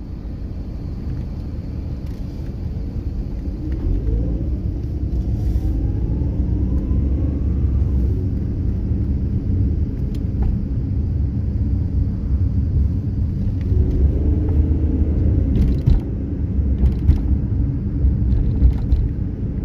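Steady low road and engine rumble heard from inside a car moving in traffic, growing slightly louder, with a rising whine about four seconds in.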